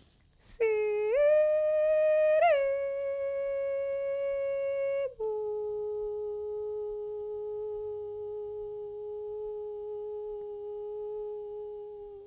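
A woman's voice holding long wordless notes: the first glides up and is held for about four seconds, then she steps down to a lower note and holds it steadily for about seven seconds before it stops near the end.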